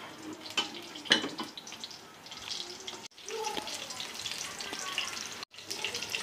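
Food cooking in hot fat on a stove: a steady sizzle dotted with small crackles, breaking off abruptly twice.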